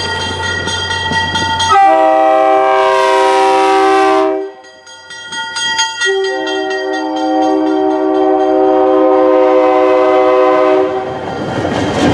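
Passing train's multi-note horn sounding long blasts; its pitch drops suddenly about two seconds in as the locomotive passes, and it breaks off briefly in the middle. Near the end, the train rolls by with a rushing rail noise.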